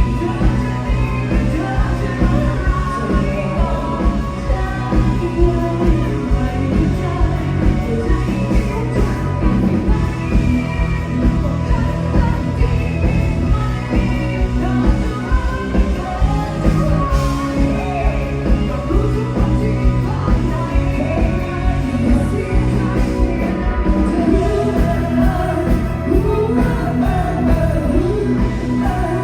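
Live bar band playing an amplified rock song with a singer over a steady, heavy beat.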